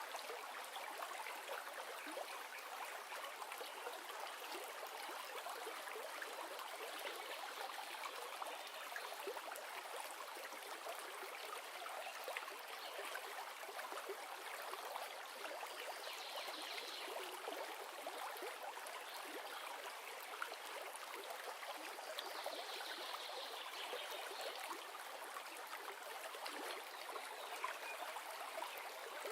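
River or stream water running steadily over rocks, a continuous rushing with small splashing and trickling, with no deep low end.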